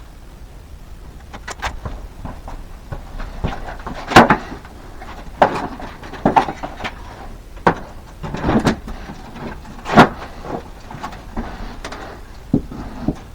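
Irregular knocks and clunks of tools and building materials being handled, about half a dozen louder ones, the loudest about four and ten seconds in.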